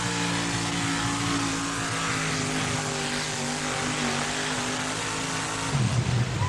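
A pulling truck's 604-cubic-inch Chevrolet engine running hard at high revs under load as it drags a pulling sled, its pitch sagging slowly. A louder low rumble comes in near the end.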